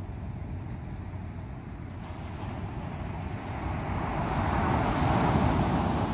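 Ocean surf: a steady low rush of waves, with one wave swelling louder from about three and a half seconds in and easing off near the end.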